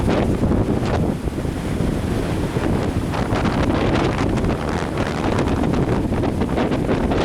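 Strong wind buffeting a handheld camera's microphone as a continuous low rumble, with lake waves washing and splashing underneath.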